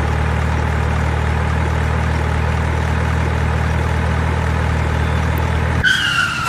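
Heavy vehicle engine idling steadily. It cuts off suddenly near the end and is replaced by a high, whistle-like tone that slides slightly down.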